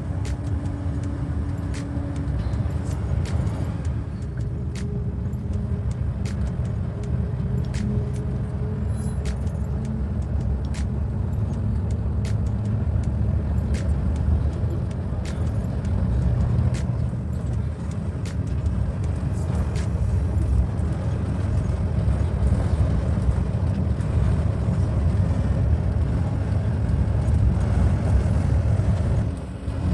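Steady engine and road rumble inside a moving tour bus, with scattered faint clicks and rattles.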